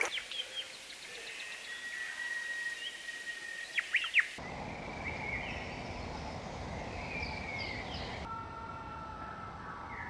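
Songbirds calling and singing, with short whistled notes and chirps; the loudest is a quick burst of sharp chirps about four seconds in. The background changes abruptly twice where separate recordings are spliced together.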